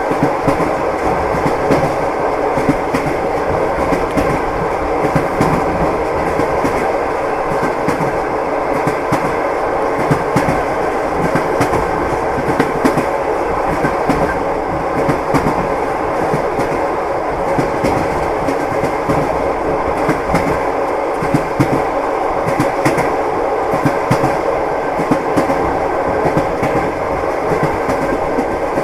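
Train wheels clattering over rail joints, a continuous clickety-clack of wheel knocks over the steady rumble of a moving train.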